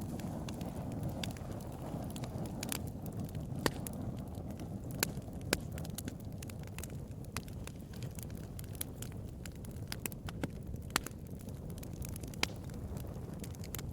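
Bonfire crackling: a steady low rush of burning with frequent sharp snaps and pops, a few of them louder in the first half.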